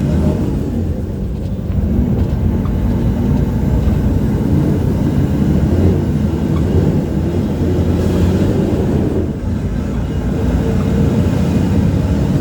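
City bus engine and road noise heard from inside the cabin while riding: a steady, loud low drone.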